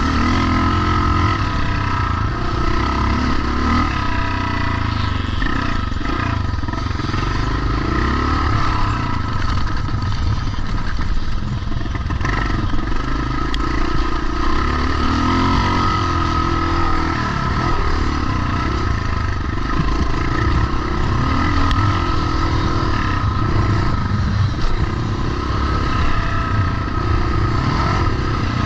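Pre-1990 vintage motocross motorcycles running on the track, their engines revving up and falling back continuously as they ride.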